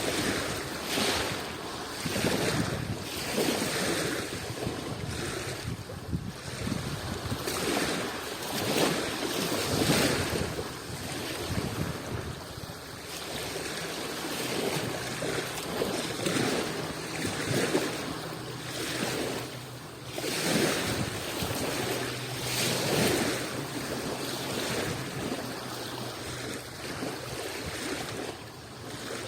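Adriatic Sea waves washing against the shore, surging and falling back every couple of seconds.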